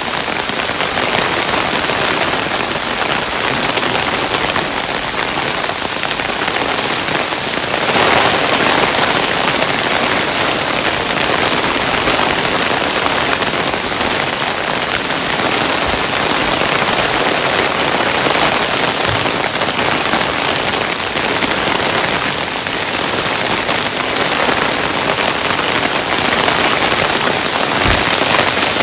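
Hailstones pattering densely and steadily on a surface, a continuous hiss of many small impacts, a little heavier about eight seconds in.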